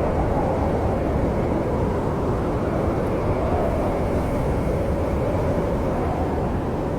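Snowstorm wind blowing as a steady low rush, with no sharp crackles standing out.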